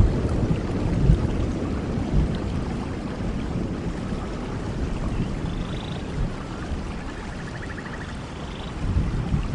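Steady rain falling, with a low thunder rumble dying away over the first few seconds and swelling briefly again near the end.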